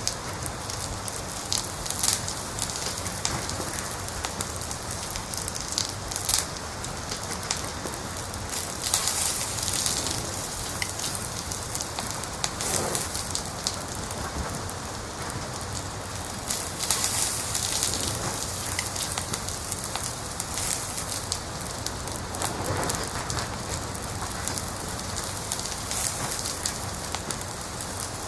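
Wood fire crackling steadily: a dense patter of small crackles with a louder pop every few seconds.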